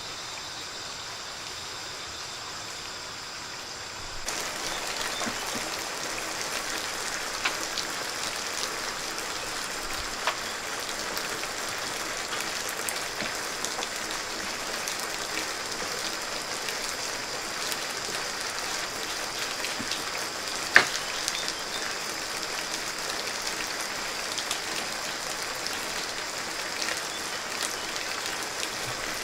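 Steady patter of falling water, like rain, getting louder about four seconds in, with scattered light ticks and one sharp crack about two-thirds of the way through.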